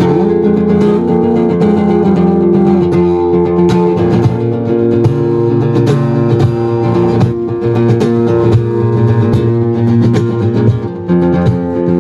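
Guitar music with plucked strings and held chords, played without singing.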